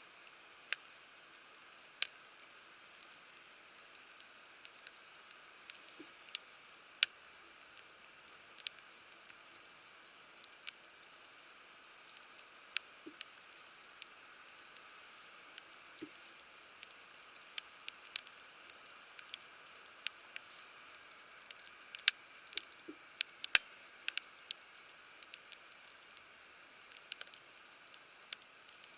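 Wood fire crackling in a fire pit: sharp, irregular pops, about one or two a second with some much louder, over a steady soft hiss.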